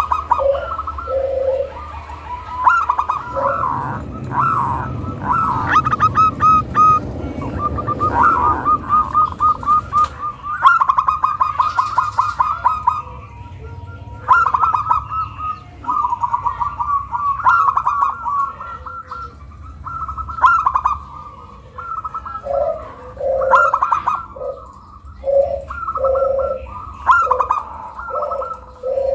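Zebra dove (perkutut) singing phrase after phrase of quick staccato cooing notes, with lower, deeper coos joining in over the last several seconds: the lively call played as a lure to set other perkutut singing. A low rumble sits under the calls for a few seconds early on.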